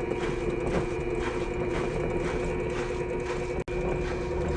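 Electrolux LSE09 washer-dryer drum spinning at high speed, a steady hum with a repeating rubbing noise about three times a second. The technician attributes the noise to an overheating IPM (motor driver) on the control board that makes the motor's rotor drag on the stator, not to a worn bearing.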